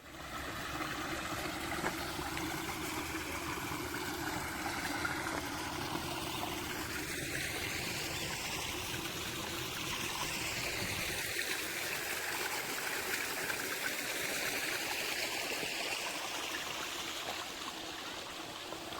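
Steady rushing of running water, like a stream, with a low rumble underneath that stops a little over halfway through.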